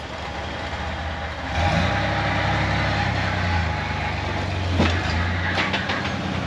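Off-road 4x4's engine running under light throttle while crawling over rocks, picking up about one and a half seconds in. A few sharp knocks near the end, likely from the rig's underside or tyres against rock.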